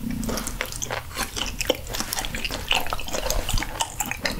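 Close-miked wet chewing of raw sturgeon sashimi, a run of rapid, irregular moist clicks and smacks from the mouth.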